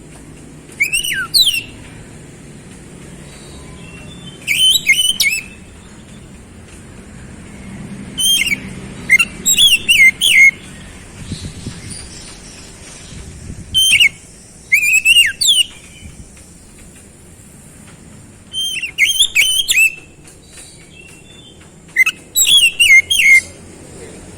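Oriental magpie-robin (kacer) song: short bursts of rapid, sweeping whistled notes, repeated every few seconds.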